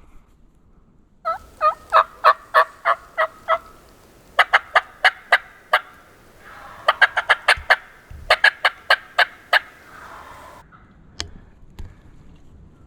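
Turkey yelping: four loud runs of evenly spaced yelps, about three to five notes a second, each run lasting a second or two.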